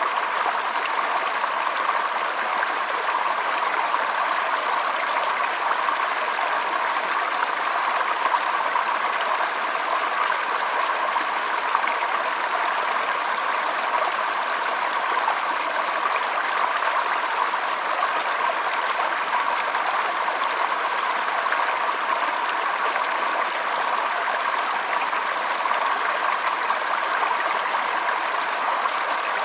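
Shallow stream trickling and flowing over stones, a steady even burble.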